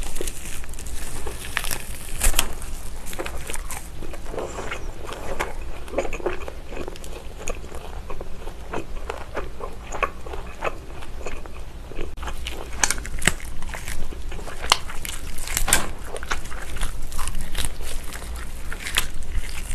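Close-miked biting and chewing of grilled lamb chop meat pulled off the bone, with many irregular sharp mouth clicks and smacks.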